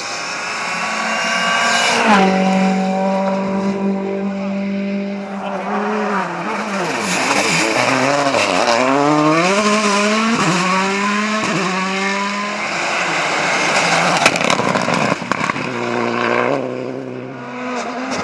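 Rally car engine at full throttle: its pitch climbs, drops sharply about two seconds in, then swings up and down again and again as the car is driven hard through the stage. Near the end the pitch settles into a new steady note.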